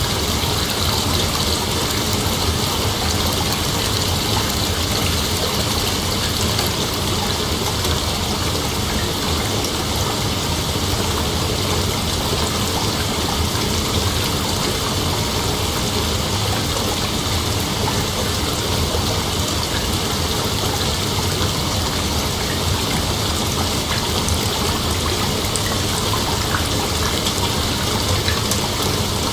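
Steady, unbroken chorus of night insects: an even hiss that is strongest in the upper range, with no clear pulses or pauses.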